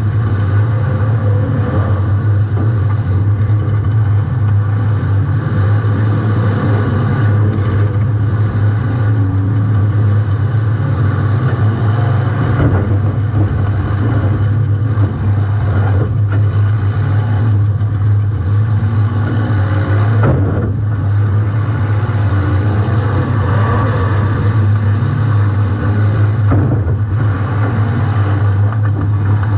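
Compact demolition derby car's engine running hard, its revs rising and falling, with a few brief drops where the throttle lets off.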